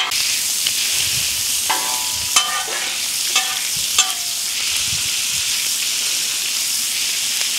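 Diced pork fatback (scrunchions) sizzling in its own rendered fat on a hot flat-top griddle. A metal griddle spatula scrapes and taps across the steel surface several times in the first half.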